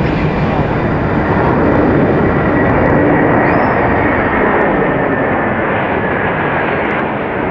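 Jet airliner's engines, a loud steady rushing noise that swells a little two to three seconds in and eases slightly near the end.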